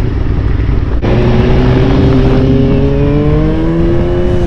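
Motorcycle engine accelerating over a heavy rush of wind and road noise. After a brief break about a second in, the revs climb steadily.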